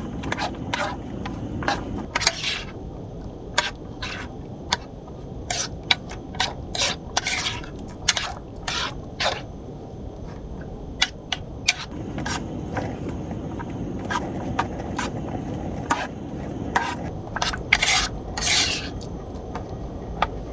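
Irregular scrapes and sharp knocks, a few drawn out into longer scrapes about two seconds in and near the end, over a steady low rumble of noise.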